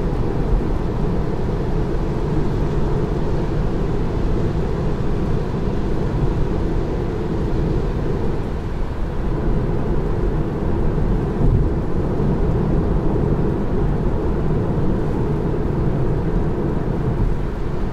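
Steady low tyre and road rumble inside the cabin of a Tesla Model 3 driving on a wet road in the rain.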